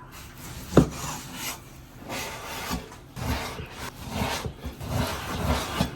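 Kitchen knife cutting pork belly into chunks on a cutting board: a series of short sawing, scraping strokes through the meat, with one sharp knock of the blade on the board about a second in.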